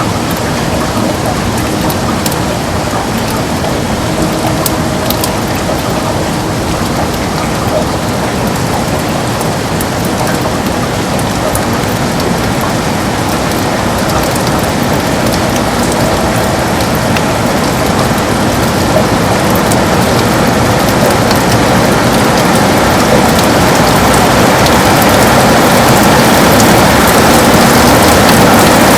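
Heavy rain beating steadily on a window, a dense hiss with scattered sharp drop ticks, growing gradually louder over the second half.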